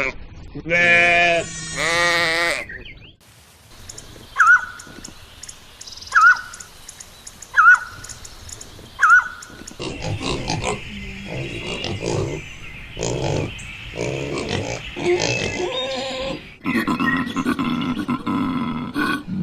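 A run of different animal calls one after another. It starts with two long pitched calls. Four short, sharp chirps follow, evenly spaced about a second and a half apart. Then comes a long run of low grunts.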